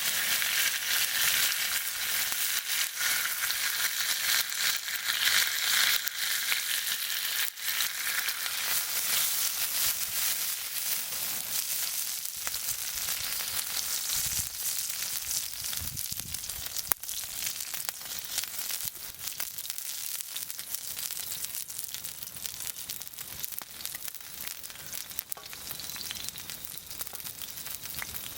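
Meat sizzling and spitting as it fries in a hot pan over a campfire. It is loudest at first and slowly settles to a lower sizzle, with one sharp click partway through.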